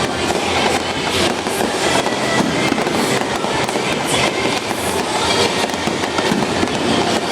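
Fireworks crackling and popping in a dense, steady stream of rapid small bangs.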